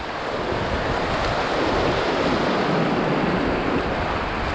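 River rapids rushing steadily: a continuous even wash of moving water.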